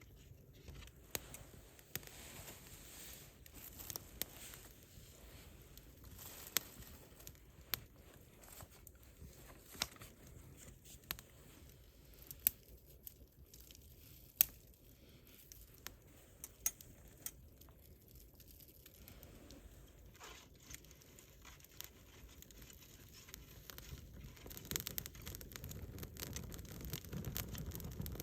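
Wood campfire crackling, with sharp pops every second or so over the low noise of the burning fire. The low rumble grows louder near the end.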